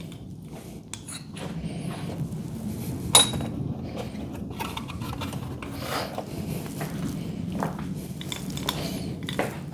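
Metal hardware clinking and tapping as garage-door hinge parts and hand tools are handled. One sharp, ringing metallic clink comes about three seconds in, over a steady low background rumble.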